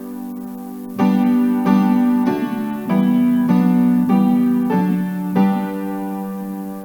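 Piano music playing slow sustained chords, each struck and left to ring and fade before the next.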